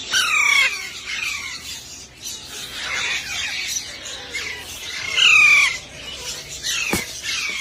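Young parrot chicks calling repeatedly, a string of harsh calls that bend in pitch, the loudest near the start and about five seconds in. A sharp click about seven seconds in.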